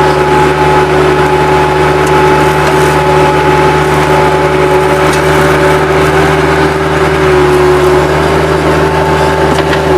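Bobcat 763 skid-steer loader's engine running loud and steady at constant revs.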